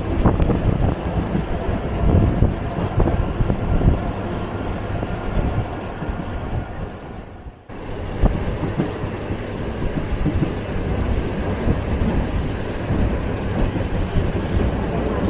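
Suburban electric train running along the line, heard from inside the carriage: a steady rumble of wheels on rails. The noise drops out sharply for a moment about halfway through, then resumes.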